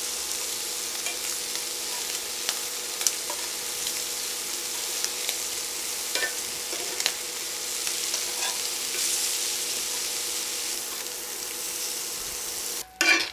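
Shrimp frying in coconut oil in a cast-iron skillet: a steady sizzle with scattered pops and light clicks of metal tongs as the shrimp are turned. The sizzle cuts off suddenly near the end, followed by a short clatter.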